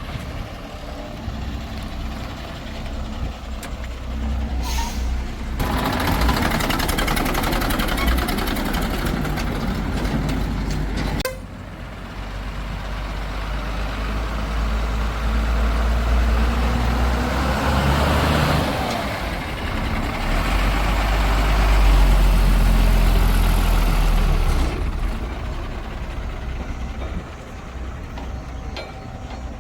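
Heavy diesel engines of a backhoe loader and farm tractors running. The engine note swells and fades under load, with a sudden drop about eleven seconds in and the loudest stretch about two-thirds of the way through.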